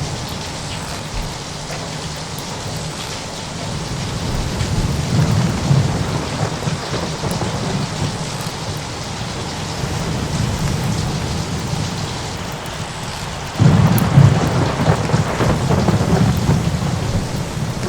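Steady rain with rolling thunder: a low rumble swells about five seconds in, and a sudden, louder thunderclap breaks about thirteen and a half seconds in and rumbles on.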